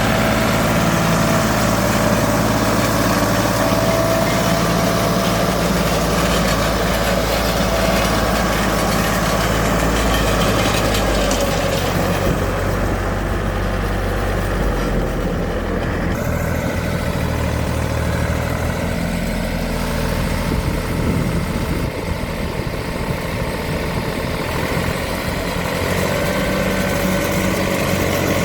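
Same Minitaurus 60 tractor's air-cooled diesel engine running steadily. Its note drops about twelve seconds in and picks up again near the end.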